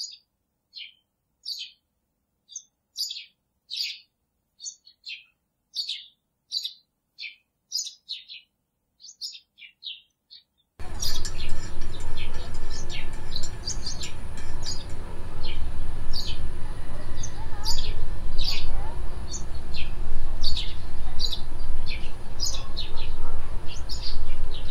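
Small birds chirping in short, high calls, one or two a second. For the first eleven seconds or so the chirps sit on a silent background; after that a steady low background noise lies under them.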